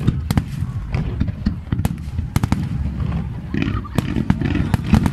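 Fireworks going off in quick succession: a string of sharp bangs and crackles over a steady low rumble of explosions, with crowd voices in the background.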